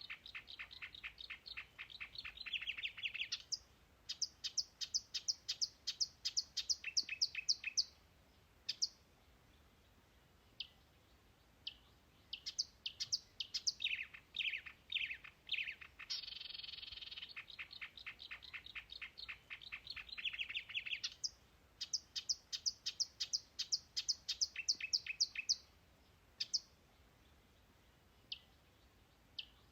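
Birdsong: a dense buzzy trill, then fast runs of short high notes, about five a second, and a few falling notes. The same sequence comes round again about halfway through, as in a looped recording.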